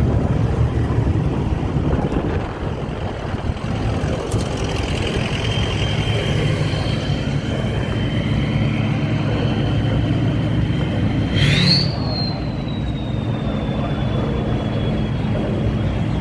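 Car engine running with a steady low rumble and a thin high whine, revved briefly about twelve seconds in so the whine rises sharply, then sinks slowly as it settles back.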